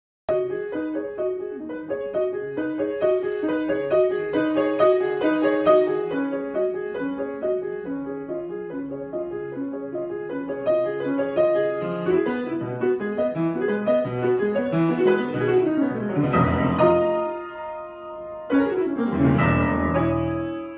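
Solo piano improvisation: a running pattern of notes in the middle register, then near the end two broad rolled chords that sweep down into the bass, the last one left ringing and fading away.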